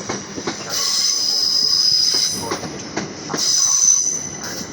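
Class 377 Electrostar electric train pulling into the platform and slowing, its wheels giving a high-pitched squeal in two stretches, about a second in and again near the end, over rumble and sharp clicks from the wheels on the rail joints.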